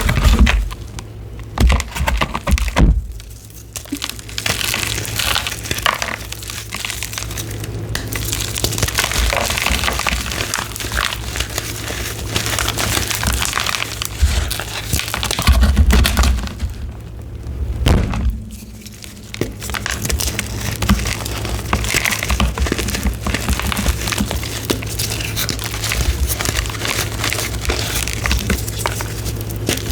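Blocks of gym chalk being crushed and crumbled in close-up, a dense, continuous crunching and crackling that breaks off briefly twice.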